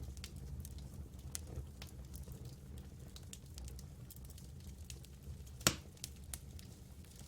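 Campfire burning with scattered sharp crackles and pops over a steady low rumble, one much louder pop about three-quarters of the way through.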